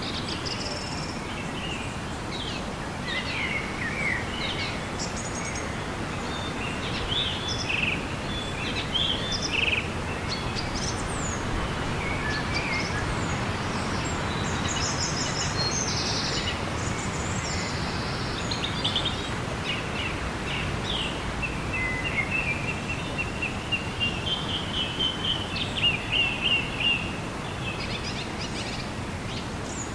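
Forest ambience: a steady hiss under many birds chirping and calling, with a run of repeated louder calls near the end.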